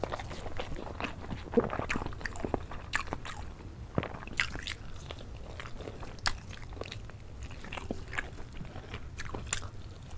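A person chewing a mouthful of rice and chicken curry, with irregular wet smacks and clicks of the mouth, and fingers squishing and mixing the rice.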